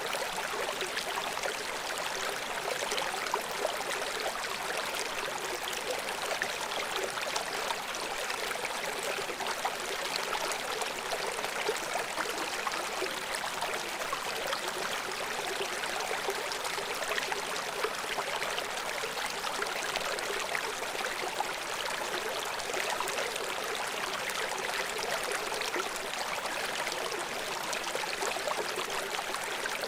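River water flowing and splashing over rocks below a waterfall, a steady rushing with fine bubbling crackle and little low rumble.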